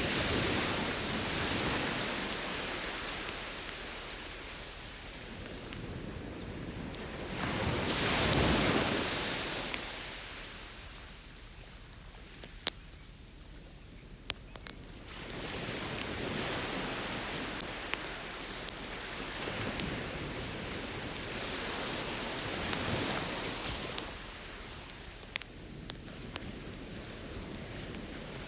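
Ocean surf washing ashore in slow swells, loudest about a third of the way in, with scattered sharp pops and crackles from a wood campfire.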